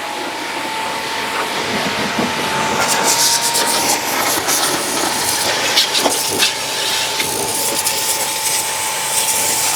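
Portable electric pressure washer running with a steady motor whine while its water jet sprays against a car. The spray hiss grows louder and crackly about three seconds in.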